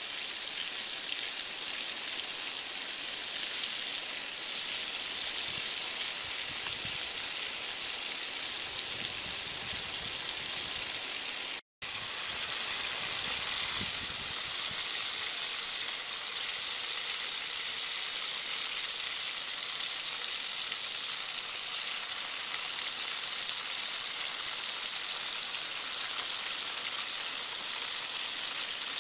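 Skewered whole shrimp frying in hot oil in a wok: a steady hissing sizzle, which drops out for a moment about twelve seconds in.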